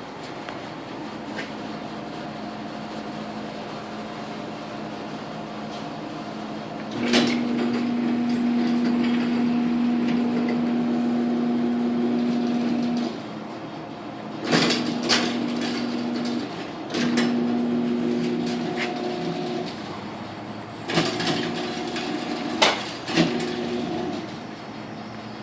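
Electric garage door opener motor running with a steady hum: it starts with a click about seven seconds in and runs for about six seconds, then stops and restarts in several shorter runs, with sharp clicks at the starts and stops.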